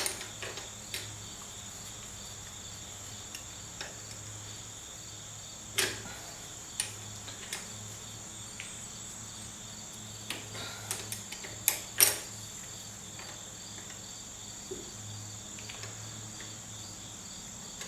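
Scattered metallic clicks and knocks of a 10 mm spanner working 1BA nuts loose, sharpest right at the start and about twelve seconds in, over a steady high-pitched hum.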